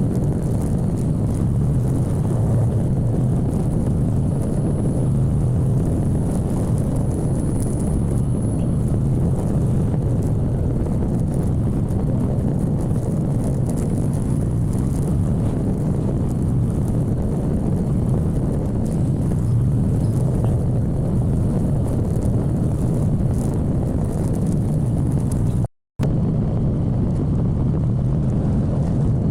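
Motorcycle on the move: a steady low rumble of engine and road noise with wind on the microphone. It drops out to silence for an instant near the end.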